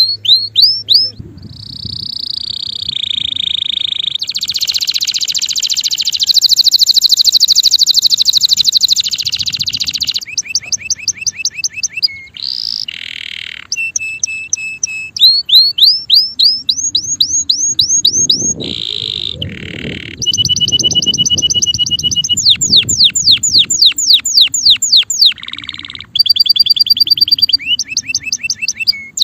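Male canary singing a long, continuous song of fast repeated trills and rolls, switching to a new phrase every few seconds.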